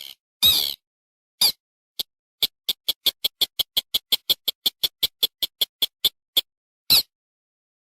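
Recorded lure call of a paddy-field rail (mandar) played back: a couple of harsh calls, then a rapid series of short clipped notes at about five a second, and one more call near the end.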